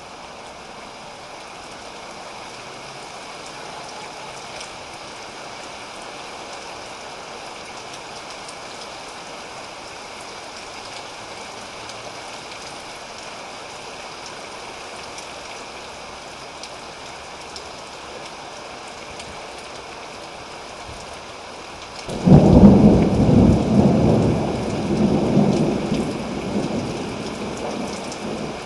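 Steady rain falling, then about 22 seconds in a loud clap of thunder breaks out and rolls on for several seconds before fading.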